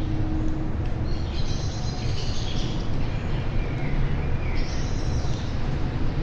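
Songbirds calling in two short bursts of high chirps about three seconds apart, over a steady low rumble.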